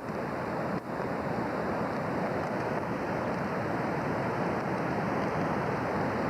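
Floodwater of a river in flood, rushing steadily as one continuous noise.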